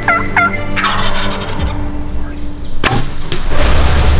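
Wild turkey gobbler gobbling: a quick rattling run of notes that ends about half a second in. About three seconds in comes a single sharp click, followed by louder, steady noise.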